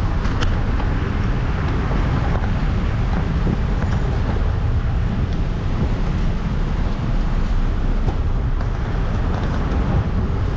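Steady rushing vehicle and wind noise with a heavy low rumble, as picked up by an action camera on the move.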